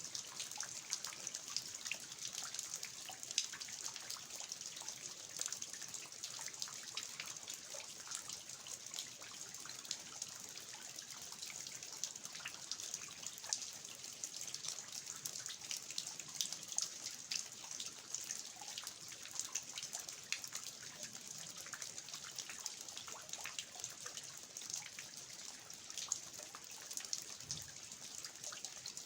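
Steady rain falling on a garden, with water dripping from the eaves of an old house: a dense, even patter of small drops over a soft hiss.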